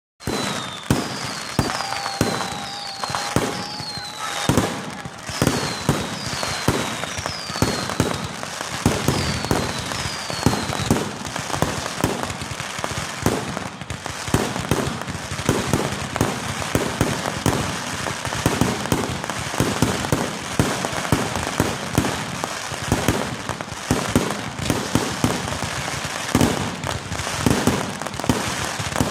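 Fireworks going off in rapid, continuous succession, a dense stream of bangs and crackling. Through the first ten seconds or so, short falling whistles repeat. About two seconds in, a steady whistle lasts for a few seconds.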